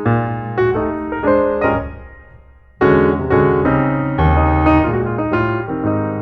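Background piano music. A phrase dies away to a short gap a little before halfway, then a fuller passage with low bass notes comes in.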